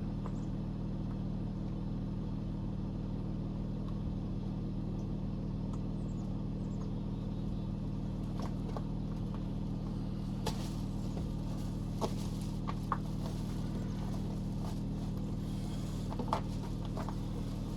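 A car engine idling steadily, with a few light clicks or knocks about ten seconds in, again near twelve, and near the end.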